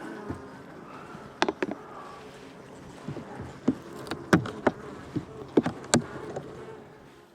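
Honeybee colony buzzing steadily, with a dozen or so sharp clicks and knocks as a hive tool pries and snaps frames loose from their propolis glue.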